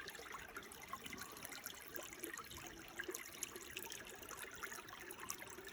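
Shallow water trickling and babbling over rocks, a faint steady patter of small splashes.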